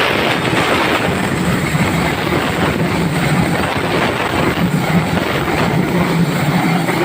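Train passing, a loud steady rush of wheel and engine noise.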